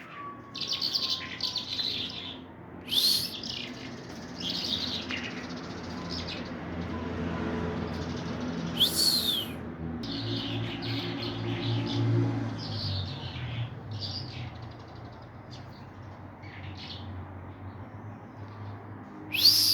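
Small birds chirping in short repeated bursts, with two loud, sharp calls that sweep downward in pitch, one about nine seconds in and one at the end. A low hum sits under the chirping through the middle.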